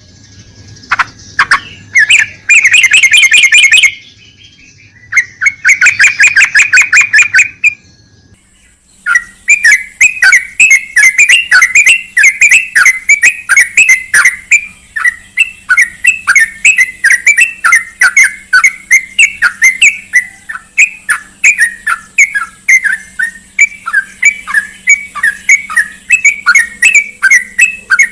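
Yellow-vented bulbul calling: two bursts of fast chattering in the first seven or so seconds, then, from about nine seconds in, a long run of short repeated notes, about three a second.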